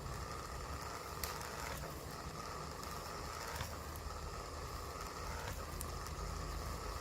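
A small motor running steadily, with a few sharp clicks.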